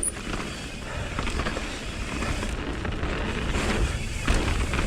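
Mountain bike rolling fast down a rough dirt trail: tyre noise and the bike clattering over bumps, with a few harder knocks about four seconds in.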